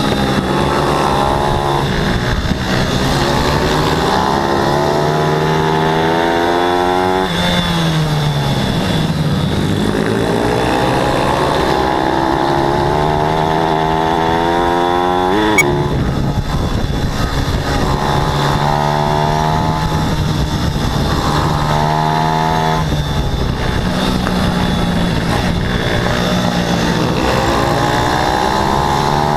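Pit bike engine racing hard, its pitch climbing repeatedly as it accelerates and dropping away as the throttle is closed, a cycle every few seconds. A brief sharp knock about halfway.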